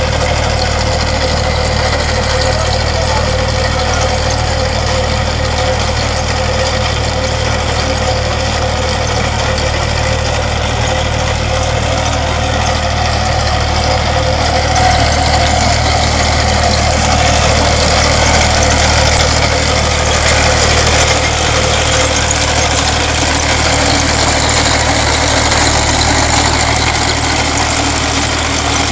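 Engine of a trench-digging machine running steadily while digging a low-voltage cable trench, a little louder for several seconds around the middle.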